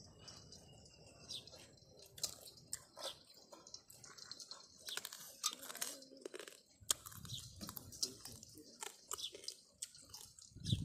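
Close-up crunching and chewing of raw small crabs, the shells cracking between the teeth in irregular crisp clicks.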